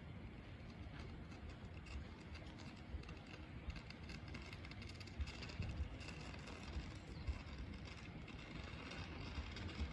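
Alpico Kamikochi Line 20100 series electric train running on the track: a steady low rumble with rising wheel and rail noise and a few sharp knocks from about five seconds in.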